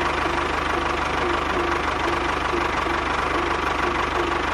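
A small engine idling steadily with a fast, even knocking beat.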